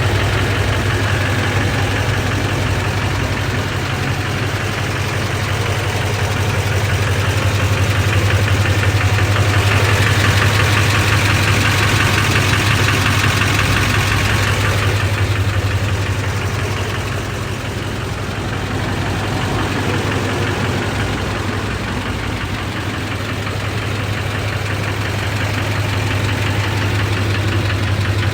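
LBZ Duramax 6.6-litre V8 turbodiesel running steadily with an engine knock, a little louder and brighter for a few seconds near the middle.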